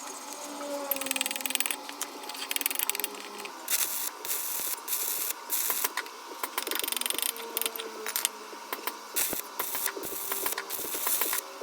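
Stick (arc) welding: the electrode's arc crackles and sputters in irregular bursts that start and stop many times.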